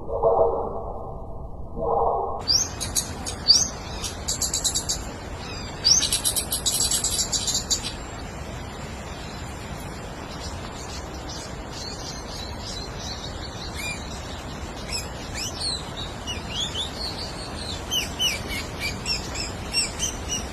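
Small birds chirping: dense runs of high, quick chirps for several seconds, then scattered short rising chirps over a steady background hiss. Before the chirping, a muffled low sound in short pulses cuts off abruptly about two and a half seconds in.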